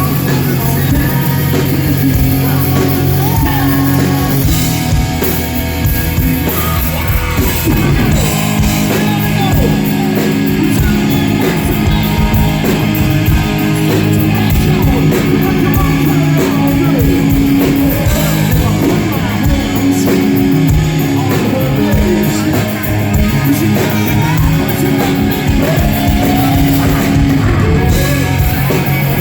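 Hard rock band playing live: electric guitar, bass and drum kit, with a singer's voice over them.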